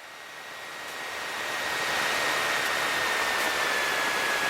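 Steady cabin noise of a Piper PA-28 Cherokee in flight, engine and airflow as one even rush, fading up over the first couple of seconds. A thin high whine runs through it, slowly falling in pitch.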